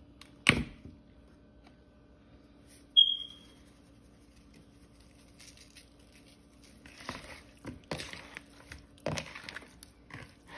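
A seasoning bottle is handled and shaken over raw chicken wingettes. A sharp click comes about half a second in, then another click with a brief high squeak around three seconds. In the second half come several bursts of shaking as the seasoning is sprinkled out.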